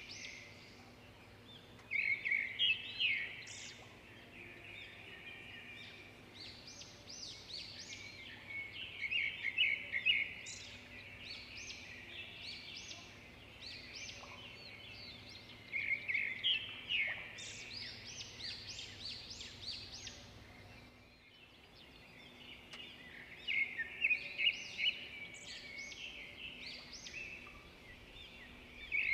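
A songbird singing in short bursts of rapid high chirps and trills, a phrase about every six or seven seconds. Underneath is a faint steady low hum that drops out about two-thirds of the way through.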